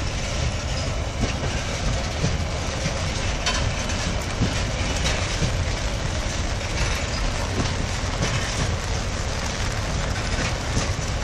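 Empty open-top freight wagons rolling past: a steady low rumble of steel wheels on the rails, with scattered clanks and clicks as the wheels cross the track.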